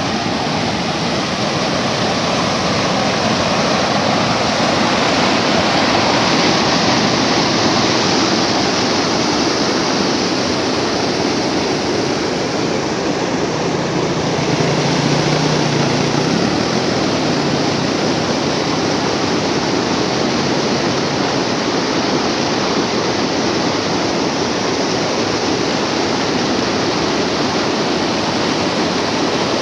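Storm-swollen water pouring over an overflow weir in a loud, steady rush.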